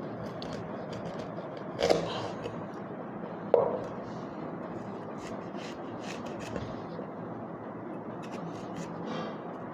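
Kitchen handling noises: two sharp knocks about a second and a half apart, then light clicks and scraping over a steady hiss.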